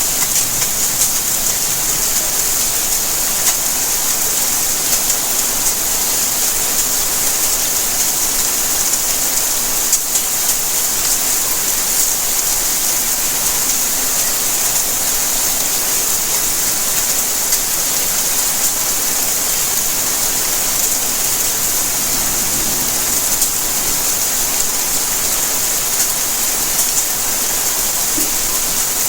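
Steady rainfall: a dense, even hiss of rain with fine pattering drops, unchanging throughout.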